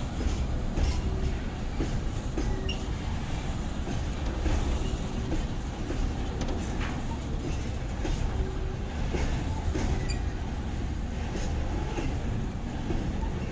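A train moving along the station tracks: a steady low rumble with irregular clicks from the wheels and short, faint squeals now and then.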